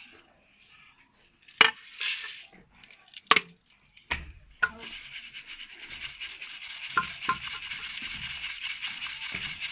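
Ground barley sattu being sifted through a sieve. A few separate knocks come first, then from about five seconds in a fast, even rasping rub runs on.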